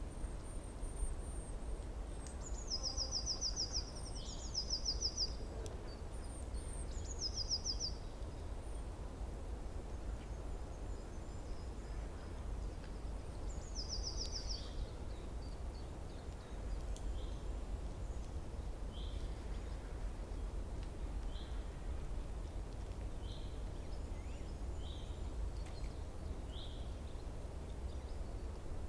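Wild songbirds calling: a few short, rapid, high trills in the first half, then short falling chirps repeated every second or two, over a steady low rumble.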